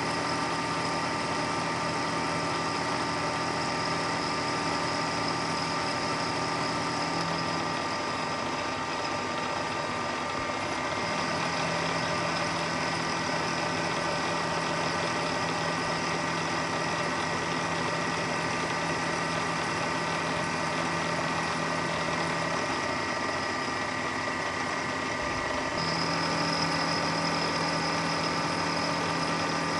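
Milling machine running steadily while cutting aluminium bar stock, with a machine hum whose tone shifts a few times as the cut goes on.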